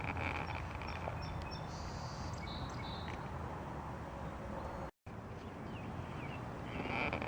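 Steady outdoor street noise of wind and traffic rumble, with a few faint bird chirps. The sound drops out completely for a moment about five seconds in.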